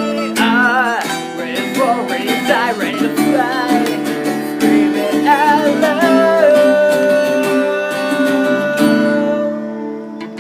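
Acoustic guitars strumming chords under a wavering lead melody that settles on one long held note about six seconds in, fading near the end.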